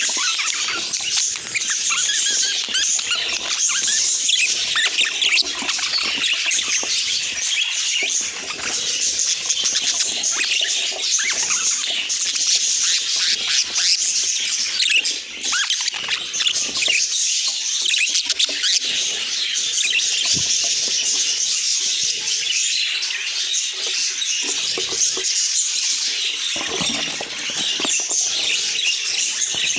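Budgerigars chattering and chirping: a dense, unbroken run of quick high-pitched chirps and warbles.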